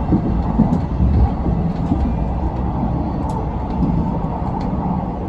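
Train running along the track: a steady low rumble with faint scattered clicks.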